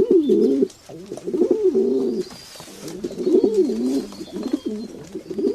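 A bird cooing in repeated low, warbling phrases, each about a second long with short pauses between.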